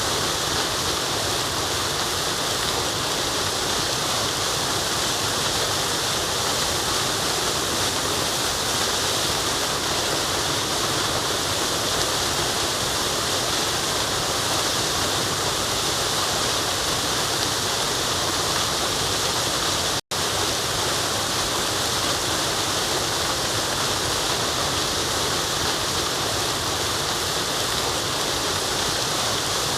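Steady rushing of a forest waterfall, an unbroken wash of falling water. It cuts out for an instant about two-thirds of the way through, then resumes unchanged.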